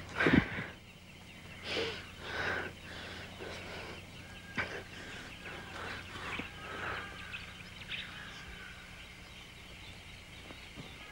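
Birds chirping in outdoor ambience over a steady low hum. A short thud right at the start is the loudest sound.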